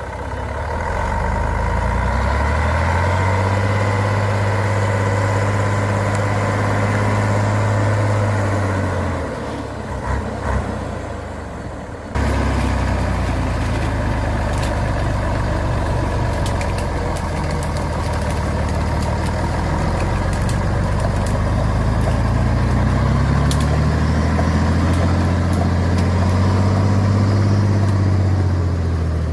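Truck engine revving up hard and held at high revs for several seconds, then easing off; it revs up and holds again near the end. The truck is straining to pull free of deep mud.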